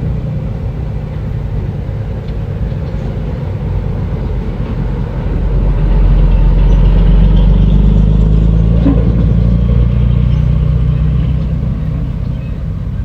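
Bulldozer's diesel engine running with a low rumble, growing louder about five seconds in and easing off again near the end.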